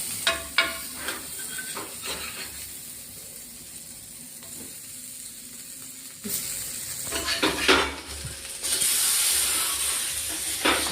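Elephant yam pieces sizzling in hot oil in a frying pan as they are turned, with a spatula clinking and scraping against the pan. There are a few clinks in the first second and more about two-thirds of the way through, and the sizzle grows louder in the second half.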